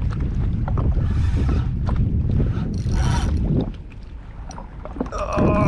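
Wind buffeting the microphone and choppy water around a jet ski: a heavy, steady low rumble that drops away for about a second past the middle. A brief voice comes in near the end.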